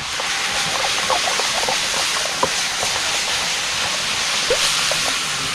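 Meat with freshly added onion, carrot and chili frying in hot oil over a wood fire: a steady sizzle with small scattered pops.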